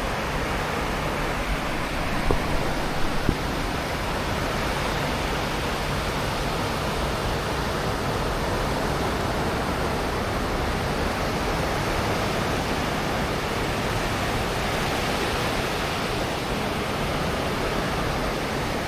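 Steady wash of sea surf on a sandy beach, an even rushing noise with no clear swells. A few brief knocks sound about two to three seconds in.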